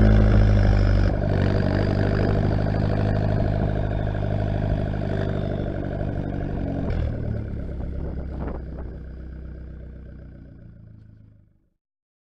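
Exhaust of a Fiat Bravo T-Jet's turbocharged 1.4-litre four-cylinder petrol engine running at a steady speed. It gradually fades away and stops about eleven seconds in.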